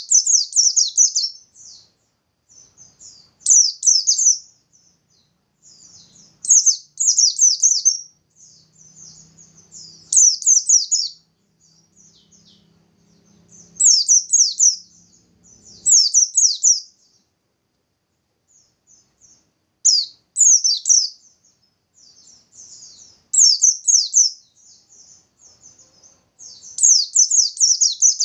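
Pleci (white-eye) singing in its rapid 'nembak' style: short, high-pitched bursts of quick falling notes, each about a second long, repeated about every three seconds.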